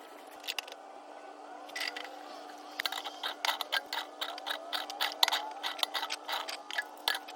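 Irregular run of small mechanical clicks, several a second, starting about three seconds in, over a steady hum.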